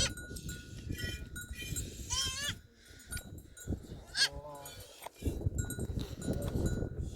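Goats bleating, a wavering call about two seconds in and a rising one just after four seconds, with animal bells clinking over a low rumble.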